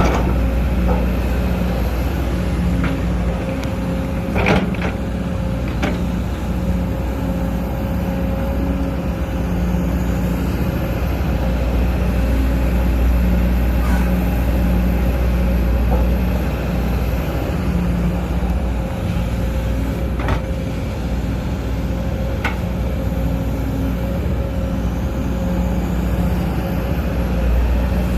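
Sumitomo SH210 excavator's diesel engine running under working load, its drone swelling and easing as the hydraulics work, with a steady whine. A few sharp knocks and clanks break through now and then.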